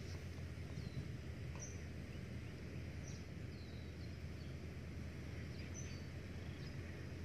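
A small bird's short chirps that fall in pitch, heard about half a dozen times at irregular intervals, over a steady low rumble of outdoor background noise.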